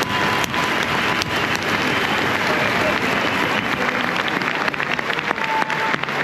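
A large crowd applauding and shouting, a dense, steady mass of clapping and voices.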